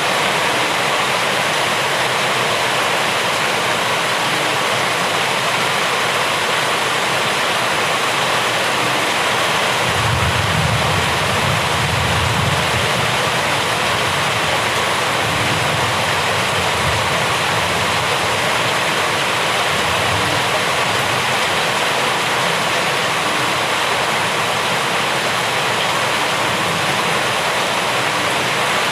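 Steady, heavy rainfall, a dense even hiss of falling water. A low rumble swells in about ten seconds in and fades, with fainter returns a few seconds later.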